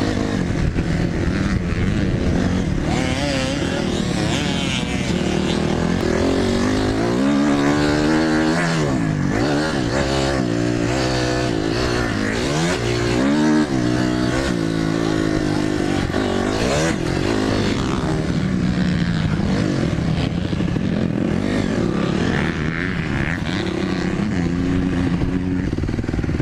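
Dirt bike engine being ridden hard, its pitch rising and falling again and again as the throttle is opened and closed, with the quickest swings through the middle stretch.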